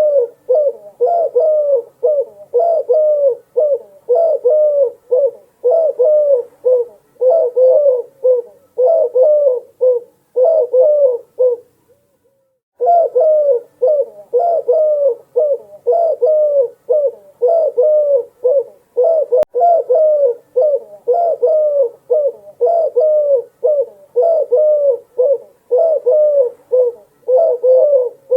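Doves cooing in a steady run of low, closely repeated coos, about two a second, with a short break about twelve seconds in.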